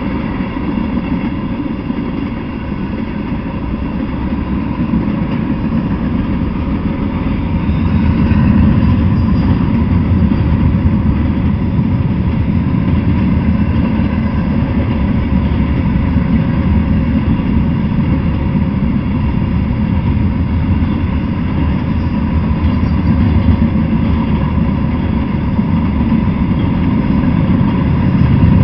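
Freight train cars, tank cars and then open-top gondolas, rolling past on steel wheels and rails, giving a steady low rumble that grows a little louder about a third of the way in.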